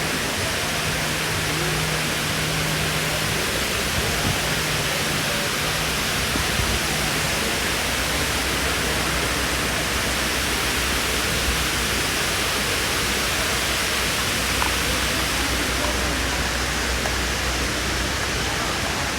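Indoor mall waterfall: falling water making a steady, even rush.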